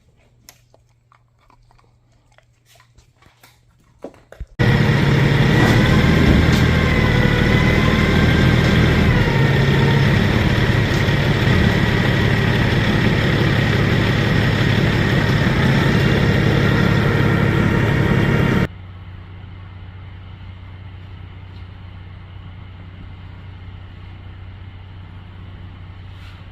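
A loud, steady machine running starts suddenly about four seconds in, with a faint wavering whine in it, then drops abruptly to a much quieter steady hum.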